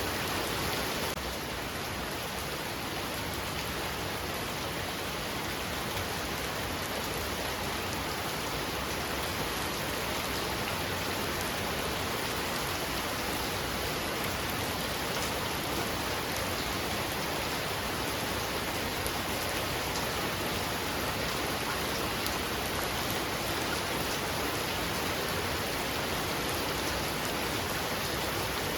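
Heavy rain falling steadily: a dense, even hiss with faint patter of individual drops, dipping slightly in level about a second in.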